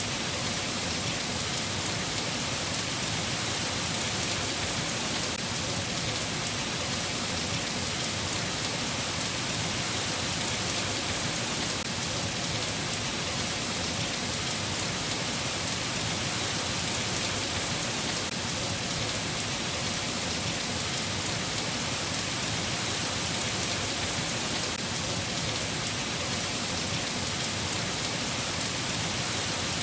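Steady rain falling: an even, unbroken hiss with no thunder or changes in intensity.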